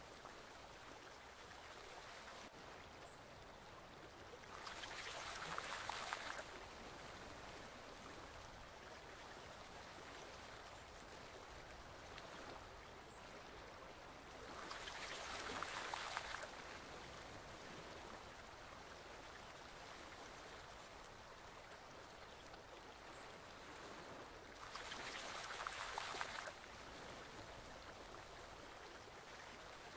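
Faint, steady flowing of a forest stream, with a louder surge of splashing water of about two seconds coming back roughly every ten seconds.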